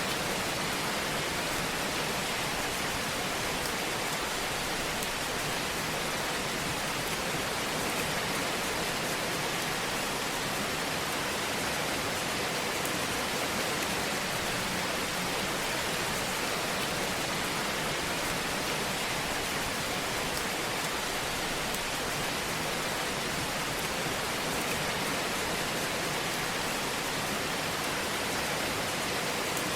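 Fireplace ambience: a steady, even hiss with faint, scattered crackles.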